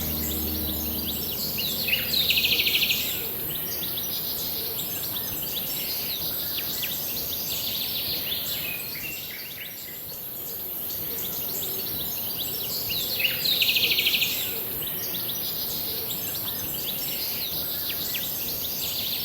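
Birds chirping over a steady high hiss, with a loud, rapid pulsing trill about two seconds in and again about thirteen seconds in. A music chord dies away at the very start.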